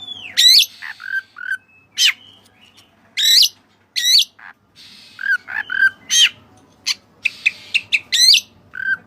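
White-breasted kacer (oriental magpie-robin) singing loud, varied phrases: sharp sweeping whistles repeated about once a second, with short lower chirps between them.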